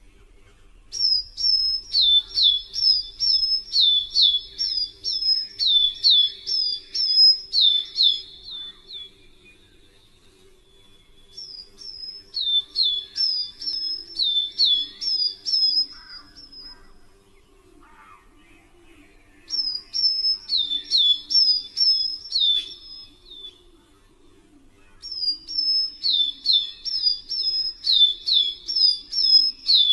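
A songbird singing in four bouts, each a fast series of high two-note phrases, a short note dropping to a lower one, about two phrases a second, with pauses of a couple of seconds between bouts.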